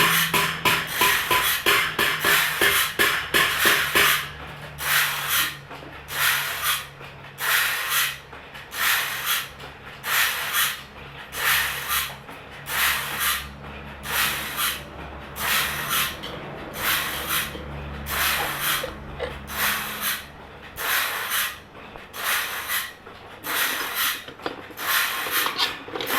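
Rhythmic rasping strokes on a bandsaw blade's teeth, quick and close together for the first few seconds, then steadier at a bit more than one a second. A steady low machine hum runs underneath.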